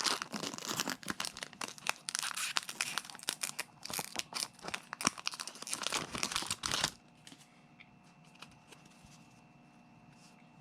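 A Pokémon booster pack wrapper being torn open and crinkled in the hands, a dense run of crackling for about seven seconds that then stops, leaving quiet room tone.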